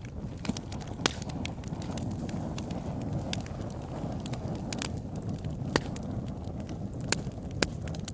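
Wood fire burning in a fireplace: a steady low rumble of flames with sharp crackles and pops scattered through it, the loudest about a second in and a few more in the last three seconds.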